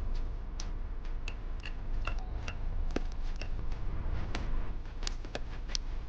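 Irregular light clicks and ticks, one to three a second, from small parts and hand tools being handled during the battery repair of a lighter.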